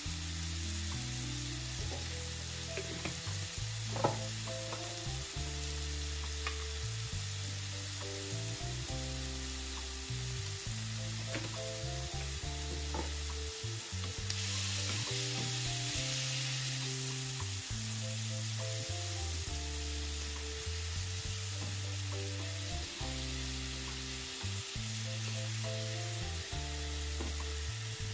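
Squid and shrimp with garlic sizzling in hot oil in a nonstick frying pan as a plastic spatula stirs them. The sizzle grows louder for a few seconds about halfway through, and there is one sharp click about four seconds in. Soft background music with a stepping bass line plays underneath.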